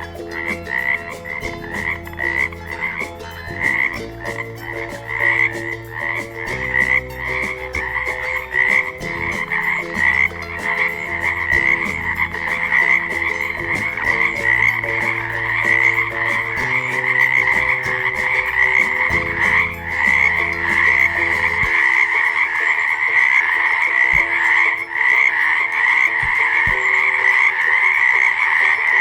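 Frogs croaking in a chorus: a continuous stream of rapid, repeated calls that grows denser. Low sustained tones run underneath for about the first twenty seconds.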